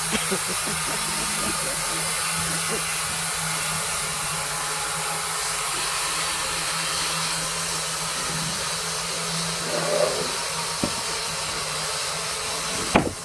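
Portable sawmill running: a steady hiss over a low, even hum. There is a short knock near the end.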